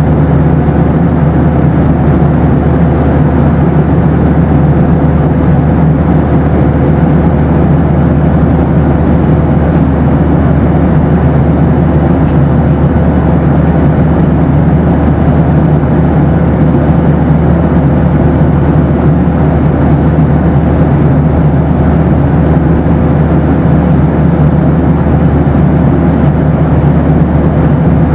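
Boeing 737 cabin noise: a steady, low, even rumble of the engines and airflow, with a faint steady hum above it and no changes.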